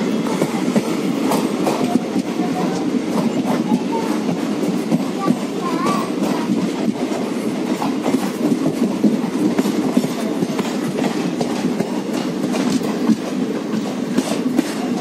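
Passenger train running along the track, heard from the doorway of a moving coach: a steady rumble of wheels on rail with frequent clicks and rattles.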